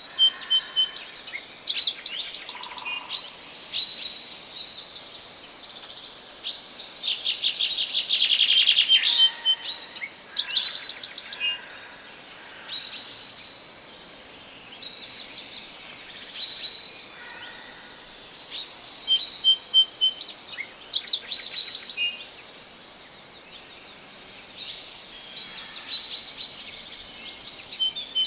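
Several songbirds in a forest singing and calling at once, a dense chorus of fast trills and short repeated chirps, loudest about a third of the way through.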